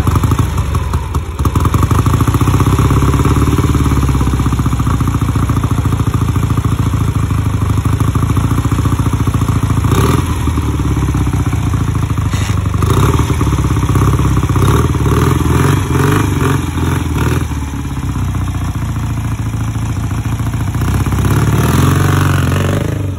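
Dnepr MV-650 army sidecar motorcycle's flat-twin engine running loudly, its speed rising and falling several times.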